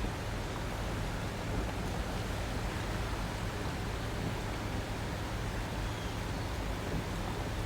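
Steady rushing noise with a low rumble underneath, even in level throughout.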